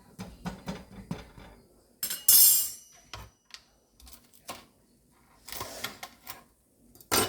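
Kitchen utensils and cookware clattering: a run of light knocks, then a loud metallic clatter with brief ringing about two seconds in, with more rattling and a sharp knock later.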